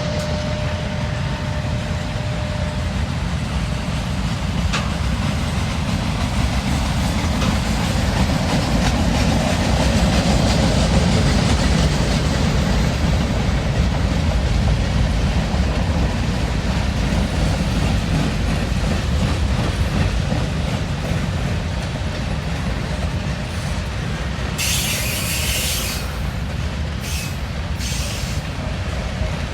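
A train rolling past on the rails, a steady rumble of wheels and cars that swells a little partway through. Near the end come two short bursts of hiss.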